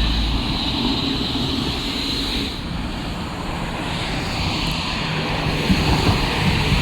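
Heavy truck and snow-removal machinery engines running with a steady drone and a broad hiss.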